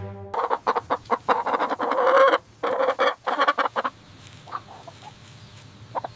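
Chicken clucking in a rapid run of short calls, loudest in the first four seconds and quieter after that.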